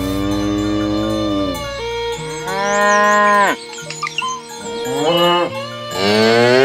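Cattle mooing: several long, loud moos one after another, each rising and falling in pitch, with a short one between and another starting near the end.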